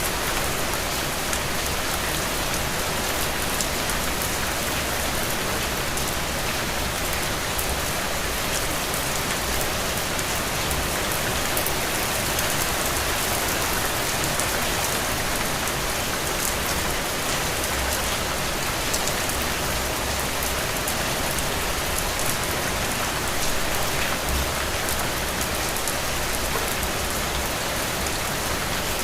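Steady rain falling on a surface, with many fine drop ticks heard through it.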